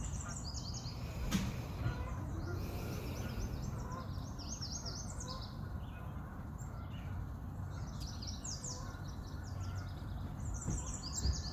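Birds singing in repeated phrases of quick high chirps, over a low steady background rumble.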